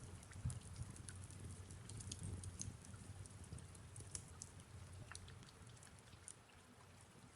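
Faint crackling of a wood fire, with soft rain falling: irregular small snaps and pops over a low steady rumble and a light hiss.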